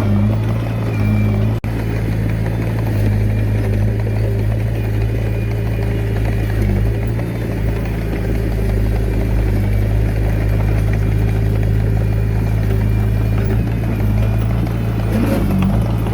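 Komatsu D21A bulldozer's diesel engine running steadily with a low, even hum, with one brief dropout about a second and a half in.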